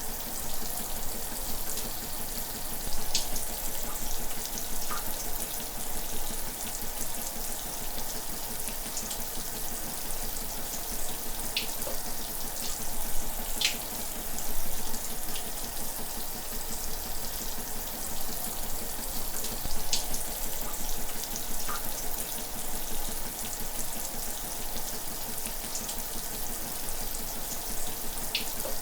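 Shower water running steadily, the spray making an even hiss, with now and then a brief sharper splash or drip.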